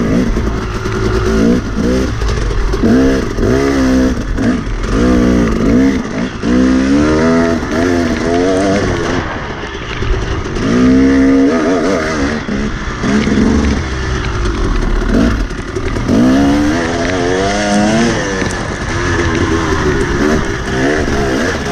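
Enduro dirt bike engine, heard from the rider's helmet, revving in short throttle bursts that rise and fall again and again as it picks its way along a technical single track, with a few steadier stretches between.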